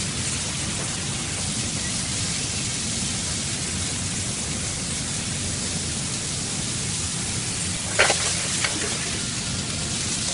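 Beef sizzling in a frying pan as it is stir-fried: a steady hiss, with a few sharp clinks of a metal utensil against the pan about eight seconds in.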